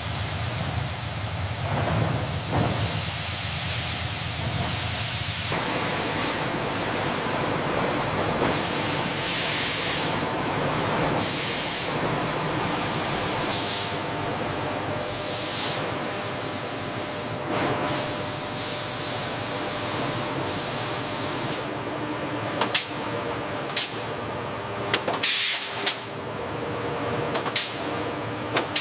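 Steady hissing noise, like rushing air or steam, that changes in character every few seconds. In the last several seconds it is joined by a series of sharp clicks and knocks.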